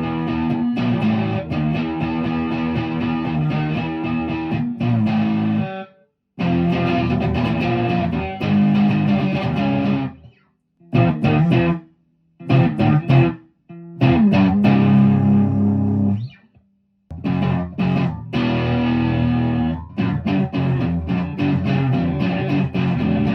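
Electric guitar played through an amplifier's distorted channel, chords and riffs broken by several short stops.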